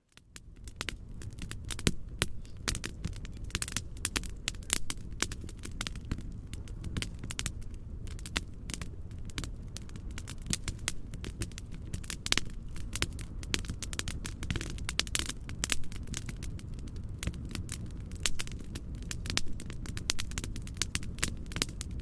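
Wood fire crackling in a fireplace: dense, irregular pops and snaps over a steady low rumble and hiss. It fades in from silence in the first second.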